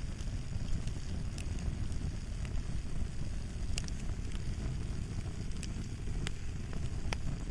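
Fire crackling: a steady low rumble with sharp pops and snaps at irregular intervals, a few seconds apart.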